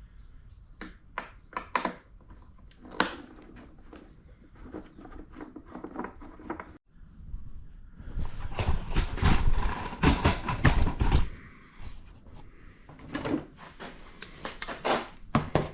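Hand tools and metal and plastic parts being handled while a compressor is taken apart: scattered clicks and knocks, then a louder stretch of clatter and rummaging partway through, and a few more knocks near the end.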